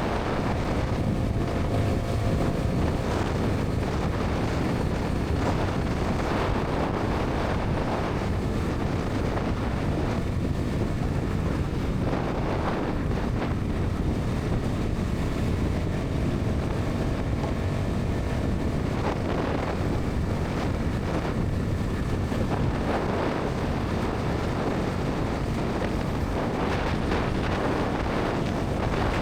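Steady wind buffeting on the microphone over a Bajaj Pulsar NS 200's single-cylinder engine and exhaust running at an even highway speed.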